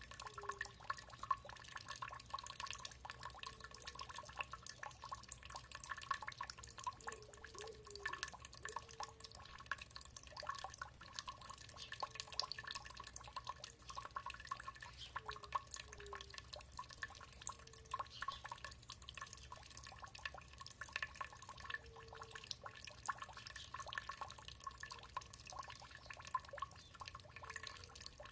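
Water dripping and trickling in a dense, irregular patter of small drops, with faint short low notes recurring every few seconds.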